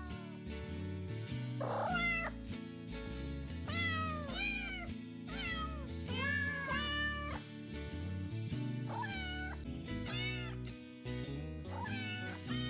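A cat meowing again and again in short rising-and-falling meows, over background music.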